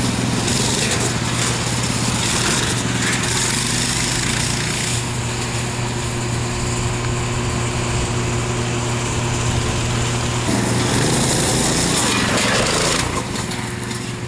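Small gasoline engine of a roughly 5-horsepower minibike running steadily. It turns harsher and louder in two stretches, early on and again shortly before the end, then drops off a little.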